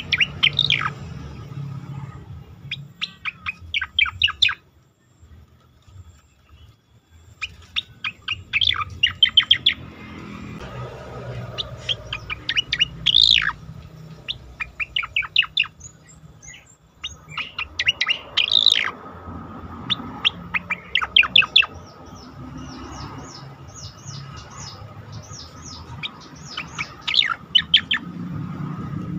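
Cica koreng (striated grassbird) singing: phrases of rapid, sharp repeated notes and quick sweeps, broken by short pauses, with a low background rumble that grows near the end.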